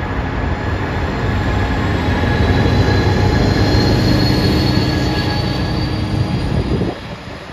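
Amtrak Pacific Surfliner train passing close by, its diesel locomotive's engine rumbling loudly with a thin whine above it that rises slowly in pitch. The rumble cuts off sharply near the end as the locomotive goes by.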